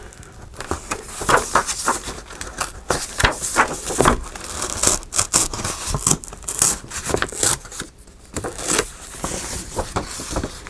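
Paper being handled: irregular rustling and crinkling strokes as sheets and pages are moved and shuffled.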